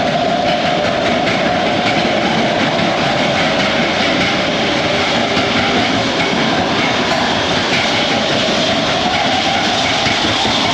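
Matterhorn Bobsleds roller-coaster sled running on its track: a steady, loud rumble and rattle of wheels on rail, with a faint droning tone underneath.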